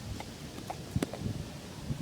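Irregular light taps and low thumps, about a second in the loudest, with two brief higher squeak-like notes.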